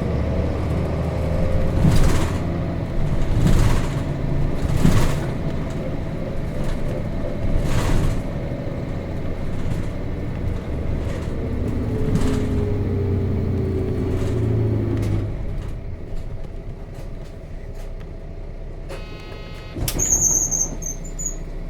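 Nissan Diesel RM bus's FE6 diesel engine heard from inside the cabin, pulling away through the gears with its note rising and falling, with a few knocks and rattles of the body. It eases off and quietens about three-quarters of the way through, and a short buzz and a sudden sharp burst come near the end.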